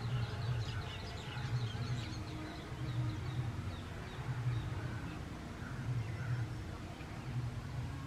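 Birds twittering: a quick run of short, high, falling chirps in the first few seconds, then a few softer calls. Underneath is a low hum that swells about once a second.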